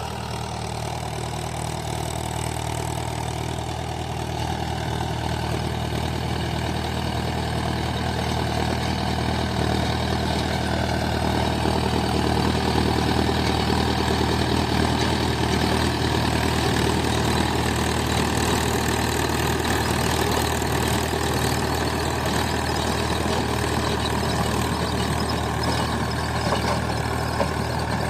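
Mahindra 575 DI tractor's four-cylinder diesel engine running steadily under a dense mechanical clatter, as when it drives a 7-foot rotavator. It grows louder over the first several seconds, then holds steady.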